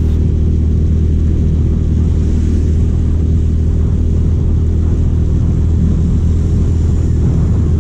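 A steady, loud low engine rumble that holds an even level throughout and cuts off abruptly just after the end.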